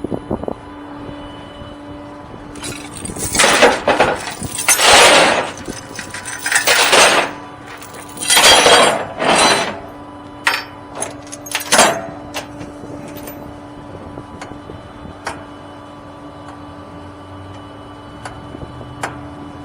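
Metal hookup gear on a tow truck clanking and rattling in a run of loud clattering bursts, then a few sharp clicks and scattered ticks, over a steady low hum from the truck.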